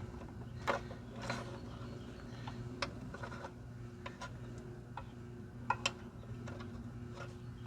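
Scattered light clicks and rattles of metal parts being handled as a blade engagement cable is worked into place on a mower, over a steady low hum.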